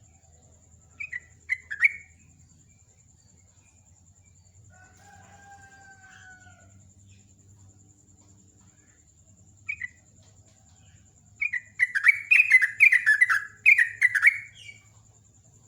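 Yellow-vented bulbul (jogjog/trucukan) singing: a few short, sharp notes, then near the end a loud, rapid, bubbling chatter of about three and a half seconds. A fainter, drawn-out call sounds in the middle, and a faint steady high whine runs underneath.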